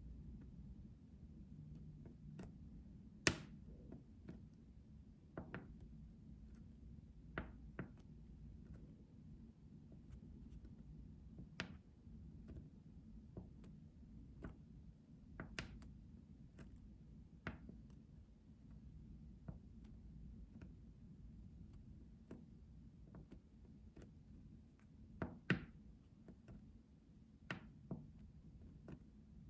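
Soft, irregular ASMR taps and clicks, one every second or two, with a few louder knocks, over a faint low hum.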